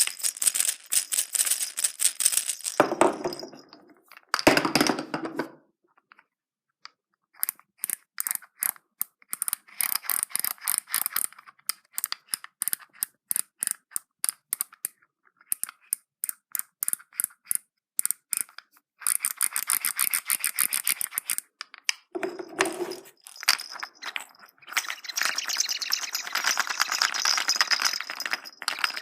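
Plastic surprise eggs and their small toys being handled and opened: quick runs of clicking and rattling, broken by short pauses, with a few brief louder, deeper bursts.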